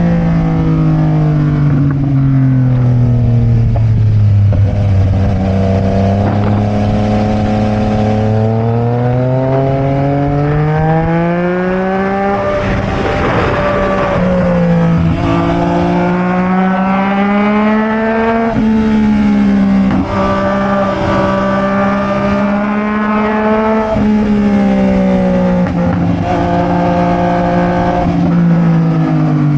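Sport motorcycle engine running while riding, its pitch falling at first, then climbing to a peak about halfway through along with a rush of wind noise, then holding fairly steady with small rises and falls before dropping again near the end.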